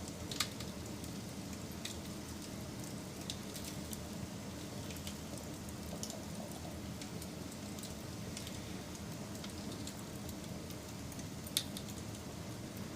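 A wood fire crackling: a steady hiss with scattered small crackles and two sharp pops, one about half a second in and one near the end.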